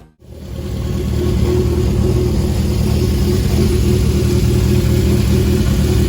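Honda CB750 Four K4's air-cooled inline-four engine running steadily, fading in over about the first second.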